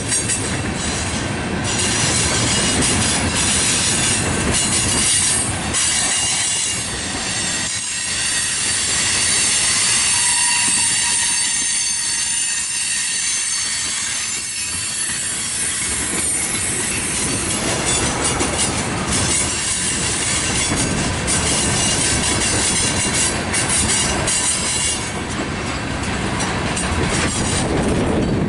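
Freight train tank cars rolling past on steel wheels: a continuous rumble of wheels on rail with clacks over the joints. A high-pitched wheel squeal is strongest in the first half and fades later.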